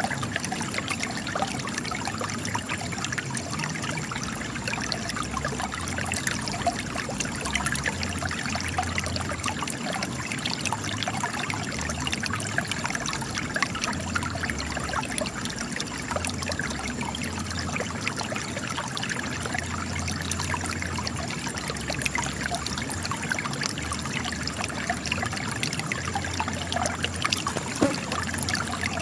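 Spring water trickling and splashing as it gushes out of cracks in rock, a steady patter of small splashes.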